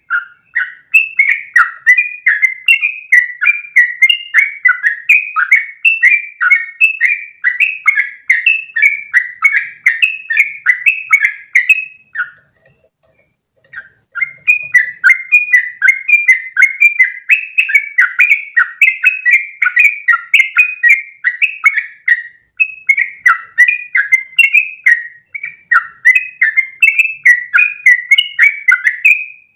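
Yellow-vented bulbul (trucukan) singing a long, rapid run of repeated chattering phrases, the rolling "ropel" song. The run breaks off about twelve seconds in for nearly two seconds, then resumes.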